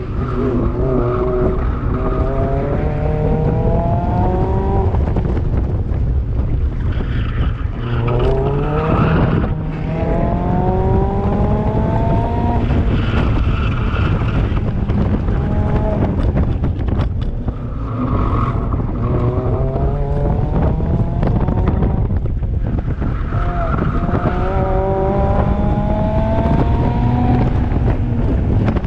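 Mazda MX-5 Miata's four-cylinder engine driven hard around an autocross course, heard from inside the open-top cockpit: it revs up in several rising pulls, each cut off as the driver lifts or shifts, with short bursts of tyre squeal in the corners.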